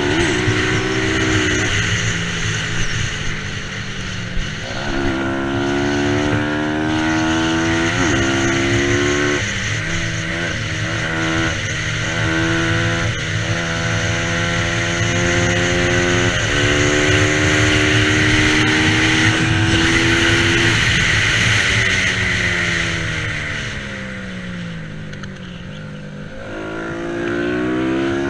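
Bajaj Pulsar 200 NS single-cylinder engine racing hard: its pitch climbs and drops sharply at each gear change several times, then falls for a few seconds near the end as it slows before climbing again.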